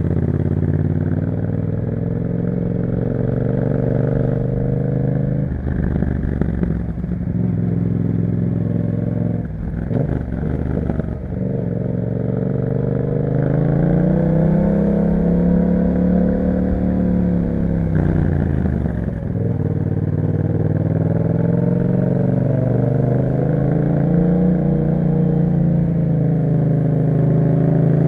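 2021 Yamaha MT-07's parallel-twin engine running through an Akrapovic aftermarket exhaust while riding. The revs rise and fall through the gears, with short dips at gear changes about six, ten and nineteen seconds in.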